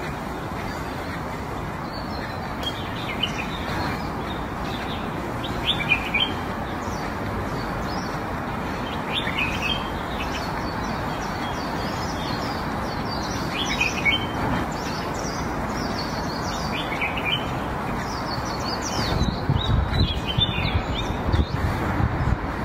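Small birds chirping on and off over a steady outdoor hiss. Near the end comes a run of louder low crunching noises.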